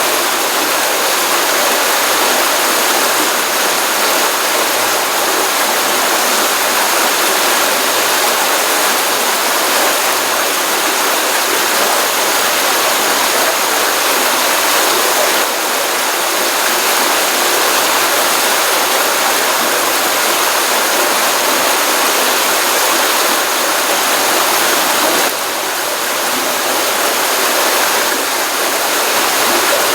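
Stream water running steadily into a pond, a continuous loud rush of flowing and splashing water, full after a rainstorm.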